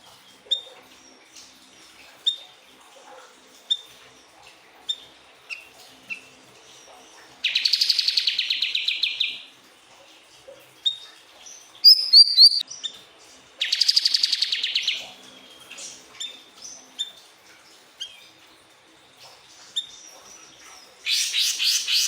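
Siri-siri bird singing: short sharp chirps about once a second, broken three times by a long, rapid buzzing trill, with a quick run of high notes about midway.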